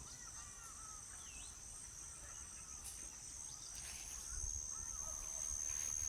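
Steady high-pitched insect trill, with faint short bird calls now and then; the whole soundscape grows a little louder about two-thirds of the way in.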